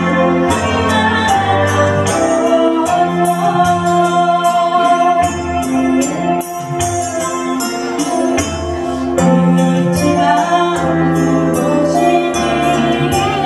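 A song with a steady beat and bright, shimmering percussion, sung by two women.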